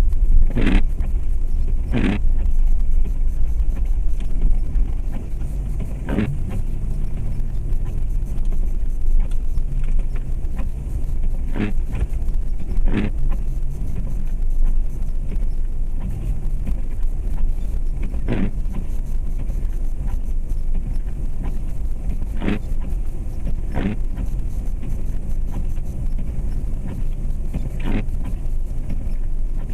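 Steady low rumble of a 2004 Jeep Grand Cherokee's 4.7 L V8 and road noise inside the cabin while driving on snowy roads, with about ten short sharp clicks or rattles at irregular intervals.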